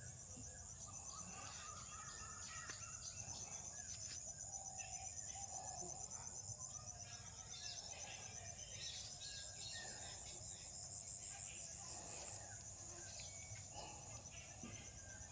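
Insects trilling continuously in a high, finely pulsing drone, with scattered faint bird chirps.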